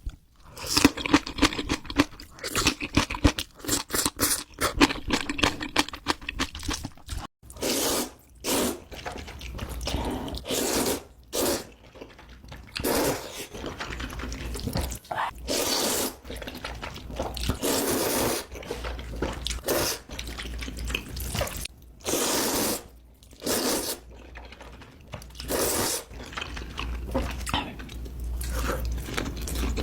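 Close-miked mukbang eating sounds of Buldak spicy ramen: wet chewing and crunchy bites, quick and crackly for the first several seconds, then a string of separate longer noisy bursts with pauses between them.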